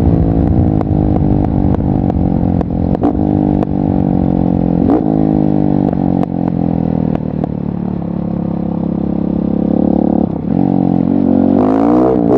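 KTM 690 SMC R single-cylinder engine breathing through a LeoVince exhaust while riding, the pitch rising and dropping back in steps as it accelerates through the gears. It holds a steadier note for a couple of seconds, drops suddenly just after ten seconds in, then revs back up near the end.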